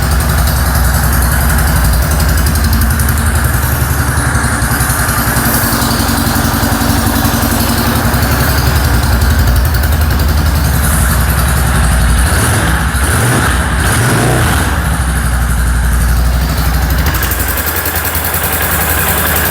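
Freshly rebuilt CGP 250cc air-cooled single-cylinder motorcycle engine running at idle just after starting. Its pitch rises and falls briefly about twelve seconds in.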